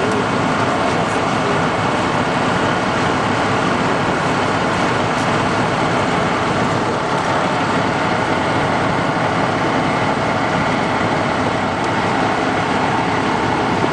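Steady, even running noise of large vehicle engines idling.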